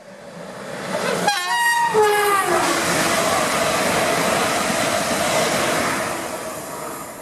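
Electric multiple-unit passenger train, a London Northwestern Class 350 Desiro, passing at speed and close by. It sounds a two-tone horn about a second in, a higher note then a lower one, each dropping slightly in pitch. Then comes a steady loud rush of the passing train, fading near the end.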